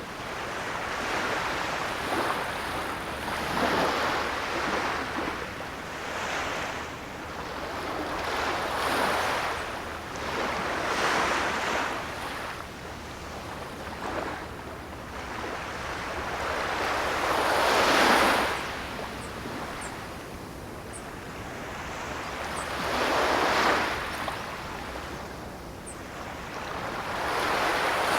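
Ocean waves breaking and washing on a shore, the surf swelling and easing every few seconds, with the biggest breaks about two thirds of the way through and at the very end.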